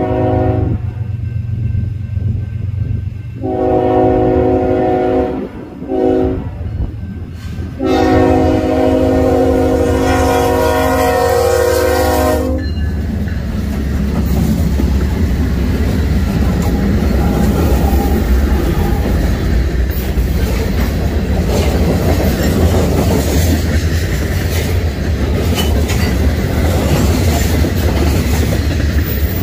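Freight train led by BNSF GE Dash 9-44CW locomotives blowing its air horn for a grade crossing: the end of a long blast, a second long blast, a brief short one, then a final long blast that stops about twelve seconds in. The locomotives then pass close by, and the loaded freight cars roll past with steady wheel clatter over the rail joints.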